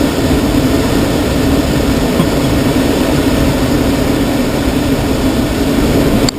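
Steady rush of air over a glider's cockpit on landing approach with the air brakes extended, a low hum running through it.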